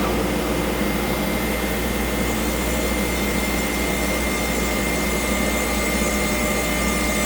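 Altmill CNC router running steadily: a constant whine over an even rushing noise.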